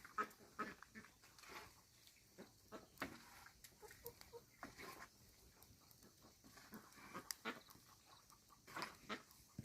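Faint, scattered calls and grunts of farm livestock, with a few light knocks in between.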